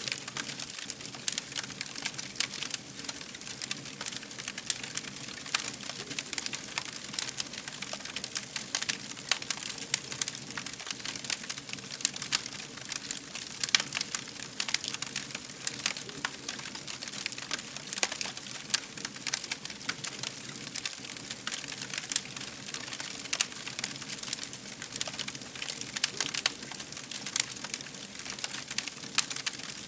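Wood fire crackling: a dense, irregular run of small snaps and pops over a soft steady hiss, with a few louder pops now and then.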